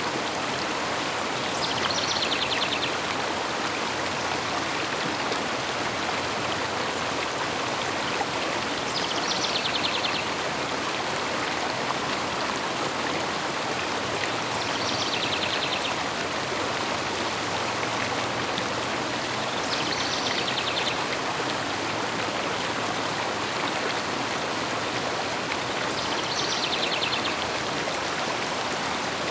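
River water flowing steadily, with a bird's short, high trill heard five times at regular intervals of about six seconds.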